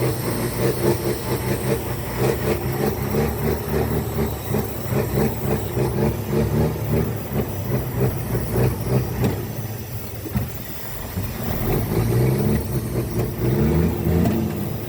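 Scania truck's diesel engine running under load, with a pulsing, uneven note. About twelve seconds in, the engine speed climbs as it revs up, then drops again near the end.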